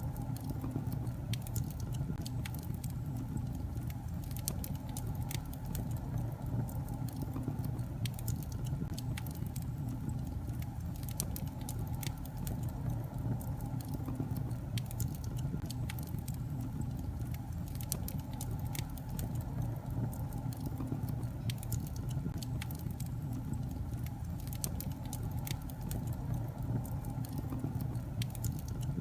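Wood fire burning in a fireplace: a steady low rush of flames with frequent small sharp crackles and pops from the logs.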